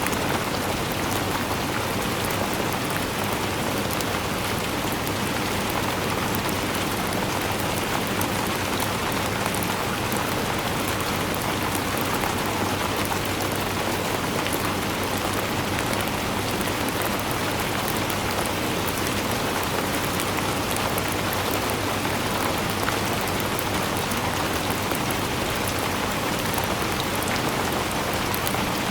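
Steady rainfall, an even hiss of rain with many fine drop ticks, unchanging throughout.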